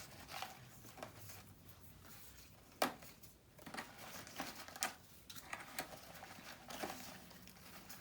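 Paper being handled and rustled while sorting through paper pieces, with scattered light taps and clicks, the sharpest a little under three seconds in and another near five seconds.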